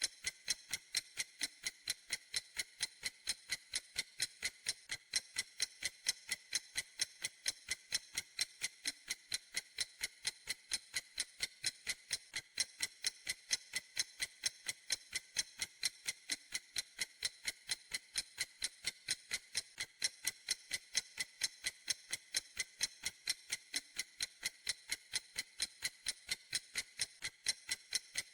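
Clock ticking in a steady, even rhythm: sharp, high-pitched clicks at about three a second.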